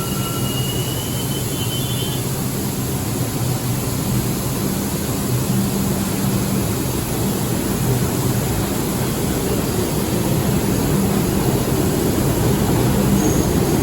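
New York City subway train on the 4/5/6 line running, a steady rumbling roar with a low motor hum, growing slightly louder toward the end.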